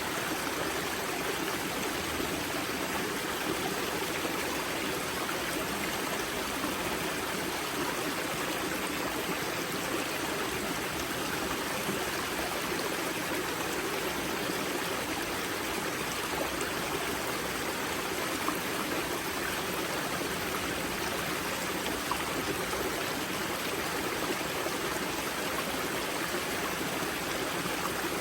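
Spring water rushing and splashing out of the source of a mountain river in a steady flow. The sound stays even throughout.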